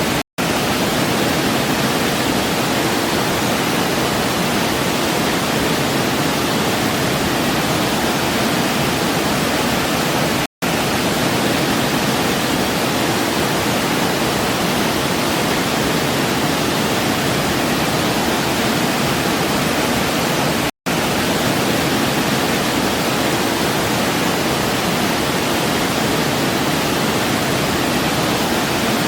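Waterfall water rushing in a steady, even roar. It cuts out to silence for an instant three times, about every ten seconds, where the recording loops.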